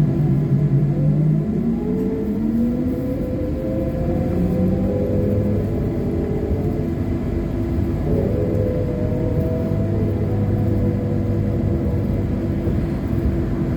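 Trolleybus electric traction motor whining and rising in pitch as it accelerates over a steady road rumble; the whine drops back about eight seconds in and rises again.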